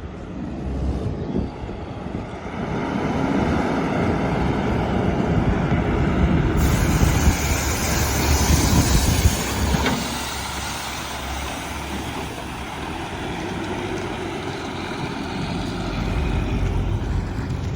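Diesel engine of a Volvo Xpeditor rear-loader garbage truck running, growing louder over the first ten seconds or so as the truck works nearer, then settling to a steady lower run.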